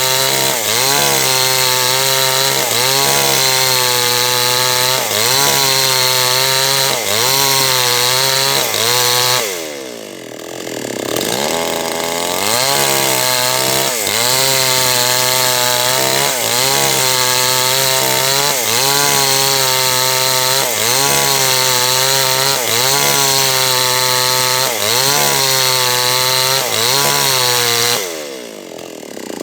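Small H&L Pro 5800 two-stroke chainsaw running at full throttle through a large teak log, its engine note wavering about once a second under the load of the cut. Twice, about ten seconds in and near the end, the note falls away and climbs back up.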